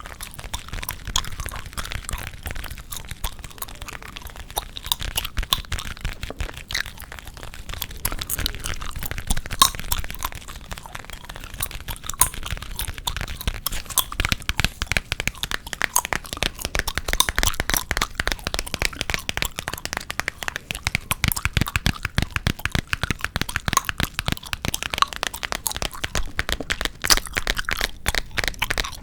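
Close-miked ASMR gum chewing and tapping: a dense, continuous run of sharp clicks, cracks and crackles.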